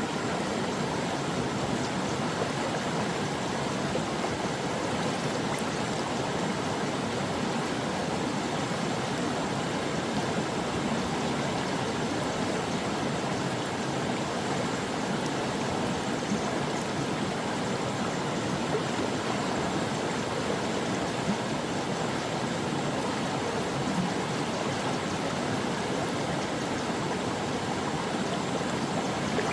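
Stream water flowing steadily over rocks: an even, continuous rushing and babbling with faint small splashes.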